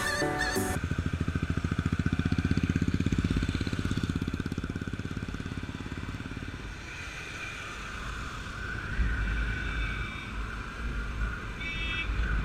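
Motorcycle engine running with a fast, even pulse that grows louder over the first few seconds and then fades, followed by a low rumble. A snatch of music ends within the first second.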